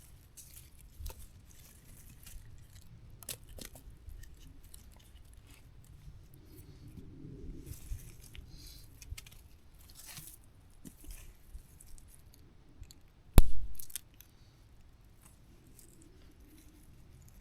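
Wood and camp gear being handled while building a campfire: scattered light clicks, scrapes and rustles, with one loud sharp crack about thirteen seconds in.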